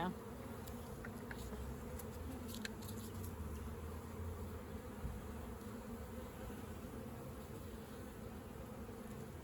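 Honeybees buzzing around an open hive, a steady, even hum with a few faint light ticks in the first few seconds.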